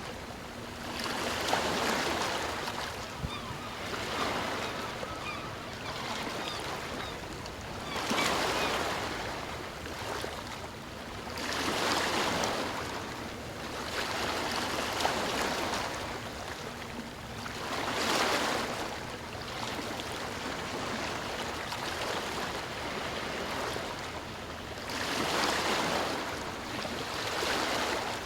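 Sea surf washing onto the shore, each wave swelling and fading every four to six seconds, with a steady hiss of water between.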